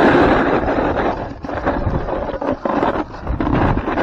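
Wind buffeting the camera microphone in uneven gusts, with a heavy low rumble.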